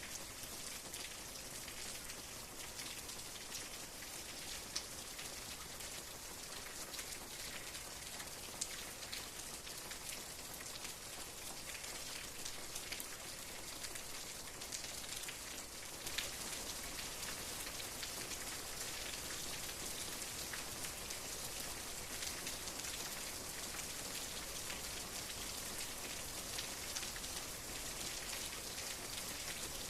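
Steady rain falling, an even hiss with many separate drop taps and a few louder single drops.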